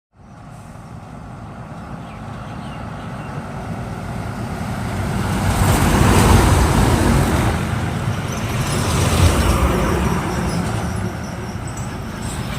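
Heavy truck on the road, its engine and tyre noise building steadily to a peak about six seconds in and staying loud afterwards.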